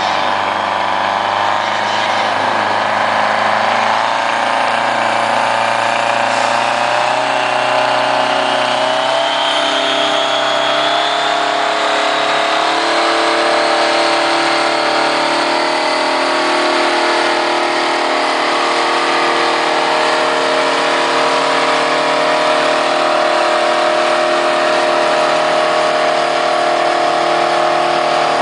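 A pulling tractor's engine running hard at high revs. Its pitch climbs through the first half and then holds steady, with a thin high whine rising alongside it.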